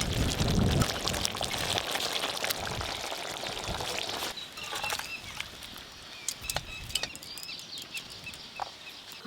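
Fish curry sizzling and bubbling in the pan for about four seconds. Then it gives way to a quieter background of birds chirping and a few sharp clicks.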